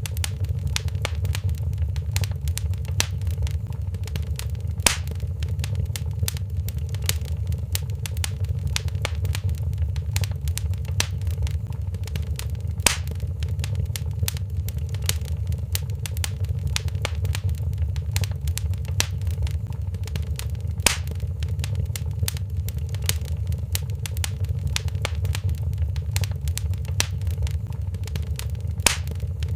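Wood fire crackling in a fireplace: a steady low rumble of flame with dense small crackles, and four louder pops about eight seconds apart.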